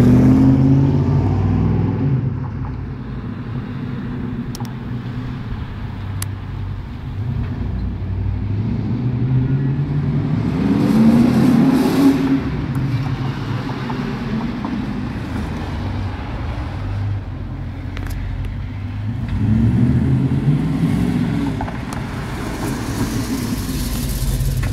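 Holden VN Commodore SS's 5-litre V8 being driven, with a steady rumble between three brief rises in revs: one at the start, one around eleven seconds in and one around twenty seconds in. The car is loudest near the start and again as it passes close near the end.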